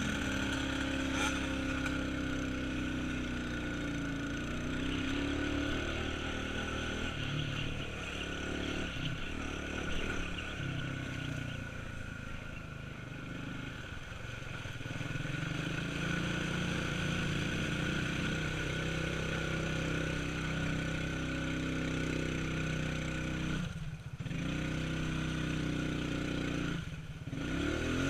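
Small off-road vehicle engine running and revving, its pitch rising and falling as the throttle changes, with two brief drops in level near the end.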